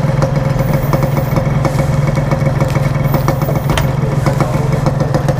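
Yamaha RX-King two-stroke motorcycle engine idling steadily through its aftermarket exhaust, not yet warmed up. A few light clicks are heard over it.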